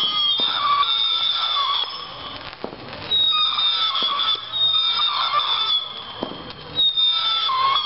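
Consumer firework cakes firing, several at once: overlapping whistles that bend in pitch, with sharp pops between them.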